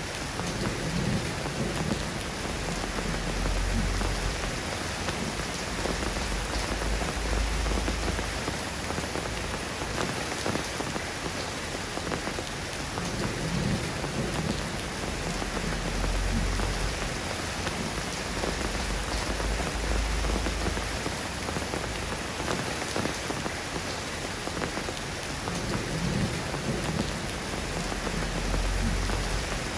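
Steady soft rain falling in a dense, even patter. Deep low rumbles swell and fade every few seconds beneath it.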